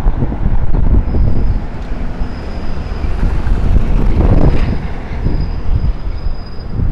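Streetcar running on its rails: a loud low rumble, with a thin high-pitched squeal coming and going from about a second in.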